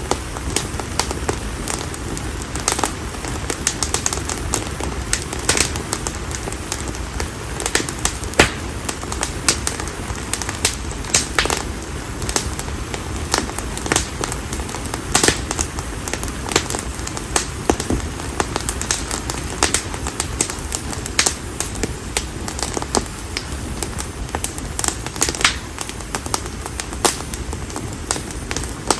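Campfire of split konara oak logs burning, crackling with frequent irregular sharp pops over a steady noise of flame.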